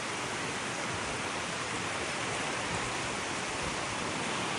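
Sea surf washing onto a sandy beach: a steady, even hiss of breaking waves.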